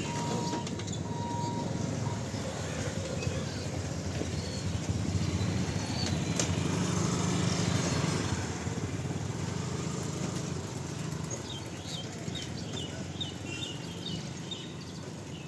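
Rumble of a train running past, a steady low noise that swells to its loudest about halfway through and then slowly fades.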